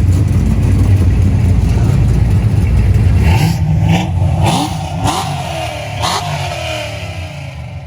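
Car engine rumbling at low speed, then revving up in a series of rising pulls as a car accelerates away, from about three seconds in, fading near the end.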